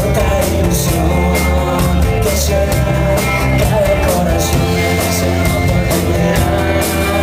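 Rock band playing without vocals: guitar and bass held over drums, with repeated cymbal hits.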